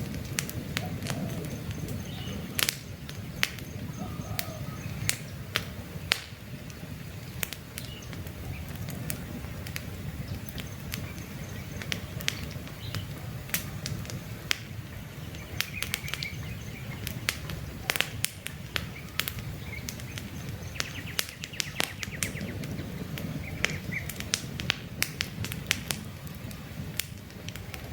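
Wood campfire crackling, with frequent irregular sharp pops and snaps over a low steady rush of burning. Faint bird chirps can be heard in the background.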